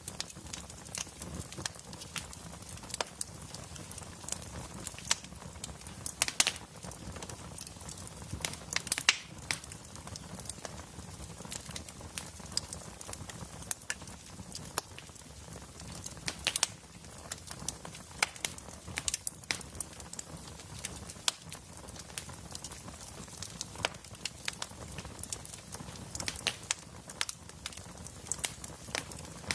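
Wood fire burning in a fireplace: frequent irregular sharp pops and snaps over a steady low rumble.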